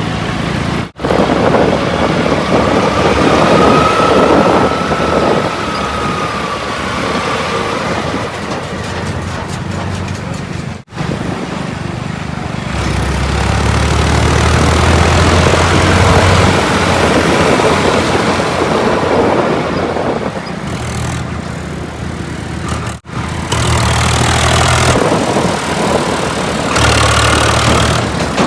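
Diesel engines of earthmoving machinery and trucks running and revving, in several short clips joined by abrupt cuts. A higher whine rises and falls a few seconds in, and a deep engine hum grows strong midway and again near the end.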